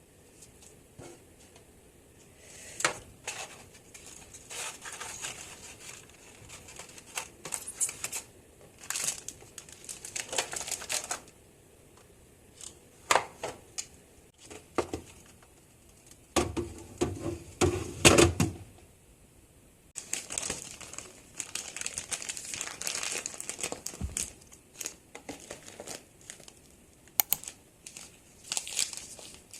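Plastic crinkling and rustling, with scattered clicks and knocks, as packaging and containers are handled. It comes in irregular spells, with a deeper, fuller rustle about halfway through.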